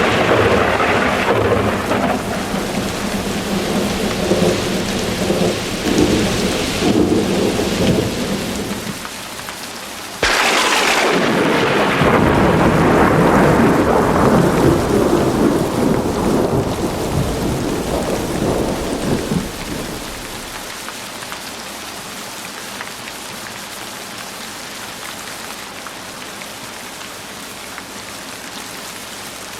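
Heavy rain with thunder: a rumble fading out over the first few seconds, then a sudden sharp thunderclap about ten seconds in that rolls on for about ten seconds and dies away. Steady rain continues after it.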